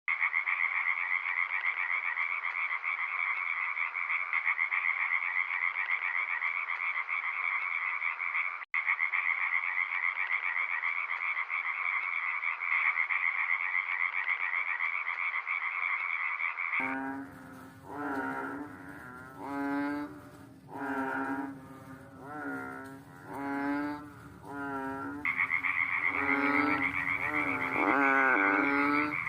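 Frogs calling at night: a steady, high, buzzing trill goes on without a break for about seventeen seconds, then gives way to a frog's repeated croaks, about one a second, with the trill coming back near the end.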